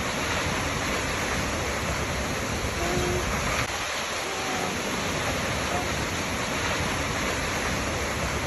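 Waterfall rushing steadily, with faint short tones coming back every couple of seconds.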